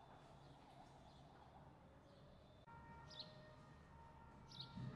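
Near silence: faint outdoor background with two short, high bird chirps about a second and a half apart in the second half.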